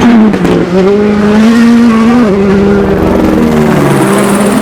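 A 2019 World Rally Car's turbocharged four-cylinder engine at full throttle, loud, with its pitch stepping down on upshifts twice, then dropping lower near the end as the car goes by.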